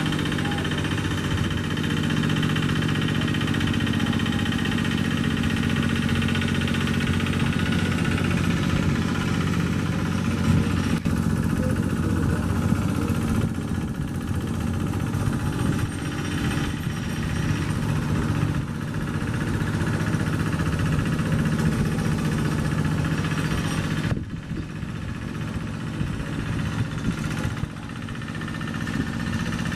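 Farm tractor engine running steadily. Its sound drops twice near the end before picking up again.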